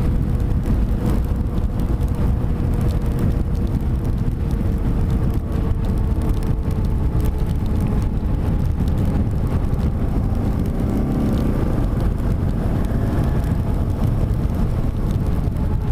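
BMW G650GS single-cylinder motorcycle engine running at a steady speed under way, mixed with wind and road noise.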